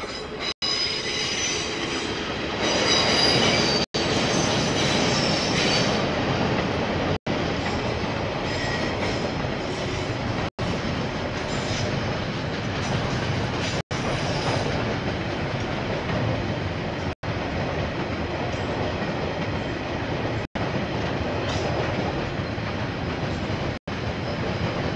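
A KiwiRail train running past, its wheels rumbling steadily on the rails, with a high wheel squeal during the first several seconds that is loudest about three seconds in. The sound is heard through a security camera's microphone, and the audio cuts out for an instant about every three to four seconds.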